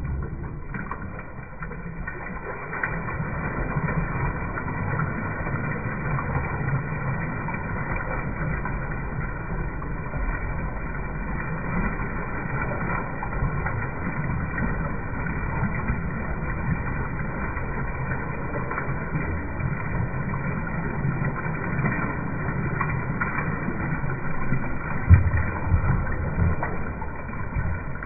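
Toilet flushing, slowed down: a long, low, steady rush of water, with a few louder low knocks near the end.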